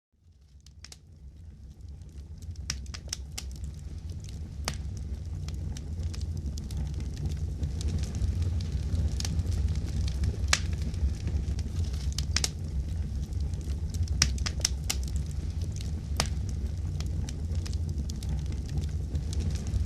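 Wood fire burning in a fireplace: a steady low rumble of flames with scattered sharp crackles and pops from the burning wood, fading in from silence over the first few seconds.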